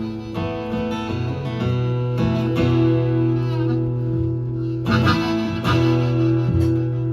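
Acoustic guitars playing an instrumental break, with held chords and a couple of strongly strummed strokes about five seconds in.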